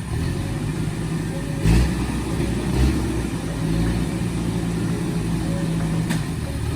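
Vehicle engine running steadily under load while driving off-road over rough ground, with two heavy low thumps about two and three seconds in from the vehicle jolting over bumps, and a sharp click near the end.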